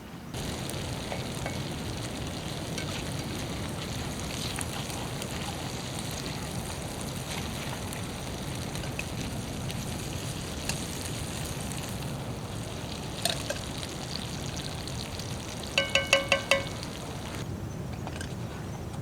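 Small-cut potatoes in oil sizzling steadily in a pan over a campfire. A couple of clicks about 13 seconds in, then a quick run of about five ringing metallic clinks about 16 seconds in.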